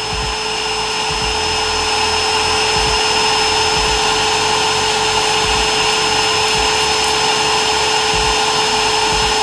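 Vacuum cleaner motor running steadily with a steady whine and a rush of air, blowing through a hose into the car's tailpipe to pressurise the exhaust for a soapy-water leak test.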